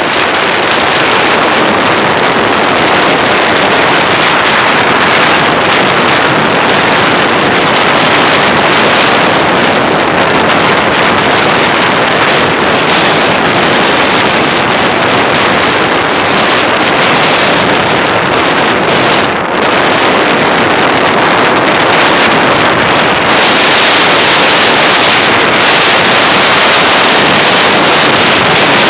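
Steady, loud wind noise on the microphone of a moving motorcycle, with the road and engine noise of the ride blended underneath.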